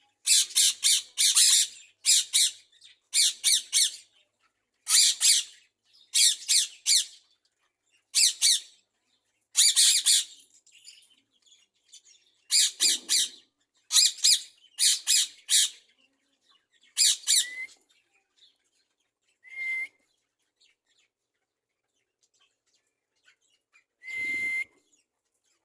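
Budgerigars giving harsh, high squawking calls in quick bursts, about one a second, which thin out after about two-thirds of the way through, leaving a short whistled note or two near the end.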